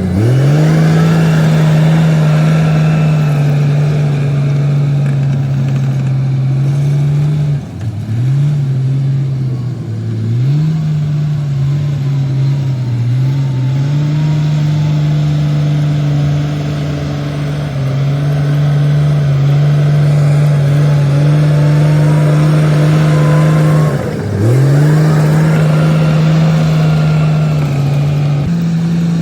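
Komatsu D58P bulldozer's diesel engine running hard and steady, its pitch sagging briefly and climbing back up several times.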